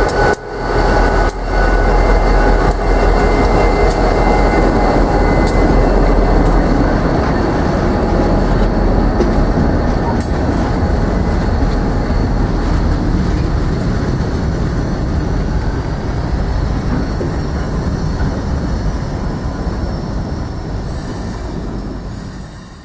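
A train rolling past close by: a loud, steady rumble of steel wheels on rail. It eases off slowly and fades out sharply near the end.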